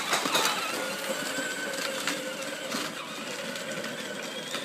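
Battery-powered children's John Deere ride-on toy tractor driving, its small electric motor and gearbox whirring steadily, with a few light clicks.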